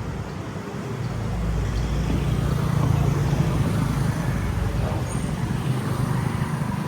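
Street traffic noise with a low engine rumble that swells from about a second in and is loudest around three seconds in, as a vehicle goes past close by.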